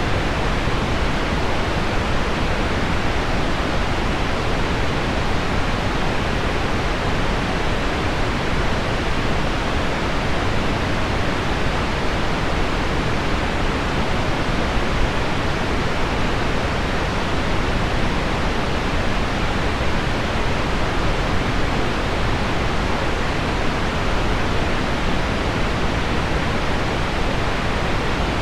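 Steady, even rushing noise: pink noise blended with heavy rain on window glass, with no single drops standing out and no change in level.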